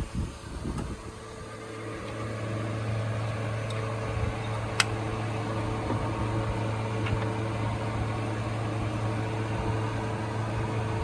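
A steady mechanical hum that builds up over the first couple of seconds and then holds even, with a single sharp click about five seconds in.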